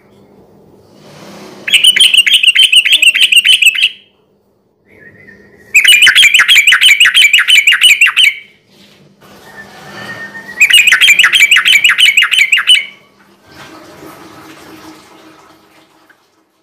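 Sooty-headed bulbul (trucukan) singing in three loud bursts of fast repeated chattering notes, each burst about two seconds long with short pauses between.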